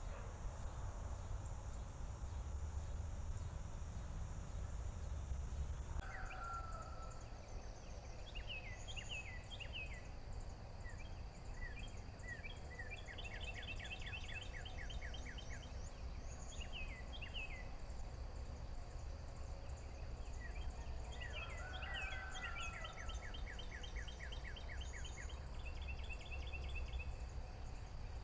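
Birds chirping and singing in quick repeated trills, starting about six seconds in, over a steady low rumble.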